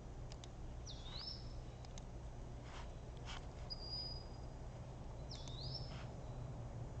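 Faint bird calls: two whistled calls that swoop down and back up, about four seconds apart, with a short steady whistle between them. A few faint clicks sound over a steady low hum.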